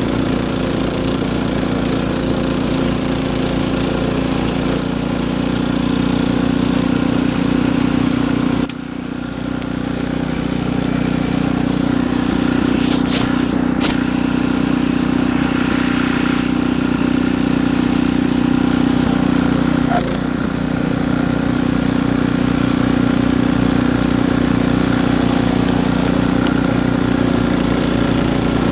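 Gas snowblower engine running steadily, with a brief dip in level about a third of the way through.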